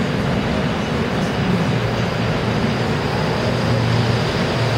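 Electric commuter train at a station platform, a steady low rumble.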